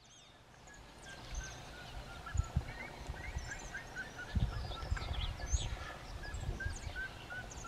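Birds calling: a busy stream of short chirps and whistles, many repeated on one note, with a few soft low thumps.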